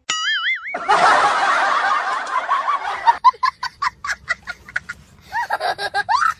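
Edited-in comedy laughter sound effects: a short wobbling cartoon tone, then a burst of laughter, a quick run of snickering about three seconds in, and a few sliding squeaky laughs near the end.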